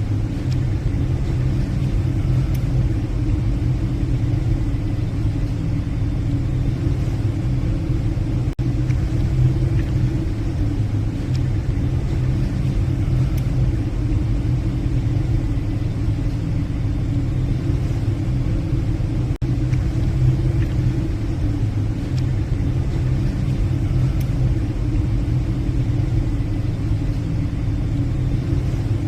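Steady low drone of a passenger ferry's engines and machinery, heard on the bridge while under way.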